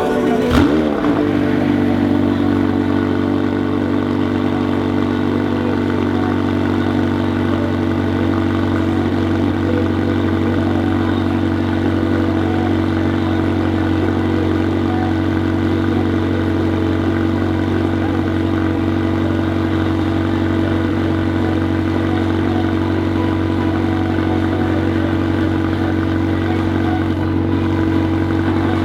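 Car engine idling steadily at a constant pitch, after a short blip of revs that drops back to idle in the first second.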